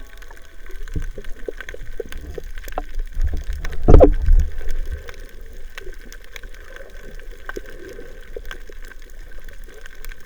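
Underwater recording on a coral reef: scattered sharp clicks and crackles, with one loud low rush of bubbling water about four seconds in.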